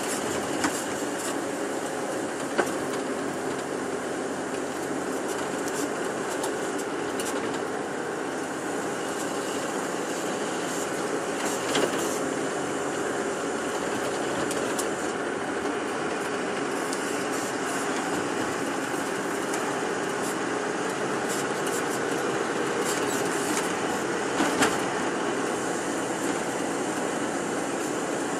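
Tour bus running along the road, heard from inside the cabin: a steady drone of engine and road noise, with a few brief knocks and rattles.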